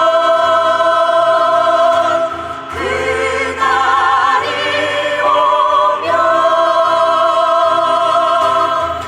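Choir singing a Korean song, holding several long notes with vibrato and pausing briefly between phrases.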